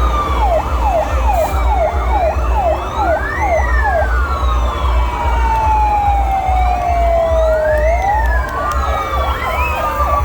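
Several fire truck sirens sounding at once, overlapping slow rising-and-falling wails with a fast yelp of about two and a half sweeps a second for the first few seconds, then a long slow falling tone. A steady low rumble runs underneath.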